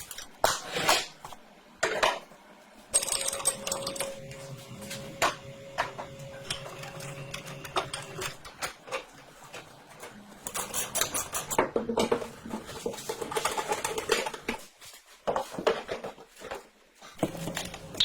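Metal parts being handled and fitted: a run of sharp clicks, knocks and clatter, with a small motor running steadily for several seconds a few seconds in.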